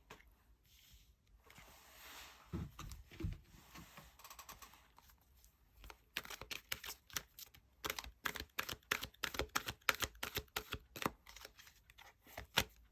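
Tarot cards being handled and shuffled: a sliding rustle with a couple of soft thumps, then a long run of quick, irregular card snaps and clicks.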